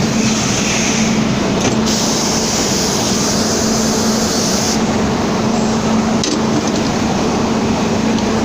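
Milling machine running steadily while cutting the side face of a bearing cap, with a constant hum and a high hiss that drops away a little past halfway.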